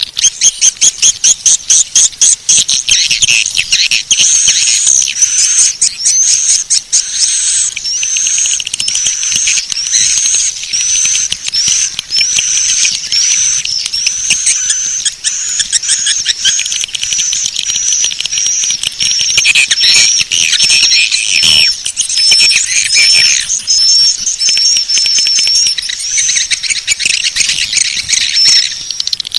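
Swiftlet calling-sound track: dense high twittering and clicking of swiftlets. It opens with a fast run of loud pulses, then settles into short rising chirps repeating about once a second over continuous chatter.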